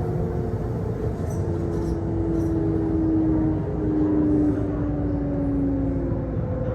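Kintetsu Osaka Line local train heard from inside the carriage: a low running rumble with the traction motors' whine falling steadily in pitch as the train brakes into a station.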